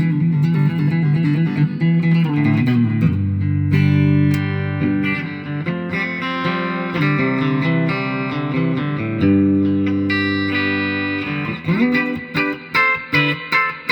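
Telecaster-style electric guitar played: held chords and notes with a couple of bends, turning to short, choppy picked notes near the end.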